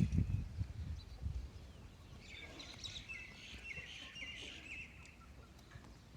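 Small birds chirping in a quick cluster of short calls from about two seconds in, after low rumbling thuds at the start.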